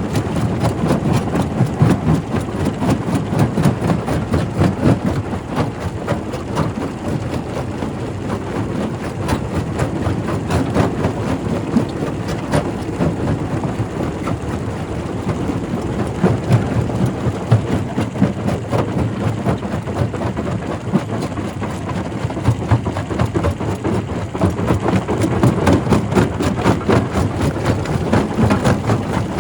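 Quarry primary rock crusher at work: a steady heavy rumble crowded with cracks and knocks of stone being broken.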